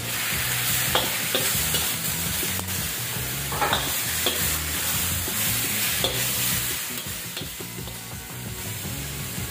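Raw chicken pieces sizzling in hot oil in a steel wok with onion, ginger and garlic, stirred with a metal ladle that scrapes and clicks against the pan now and then.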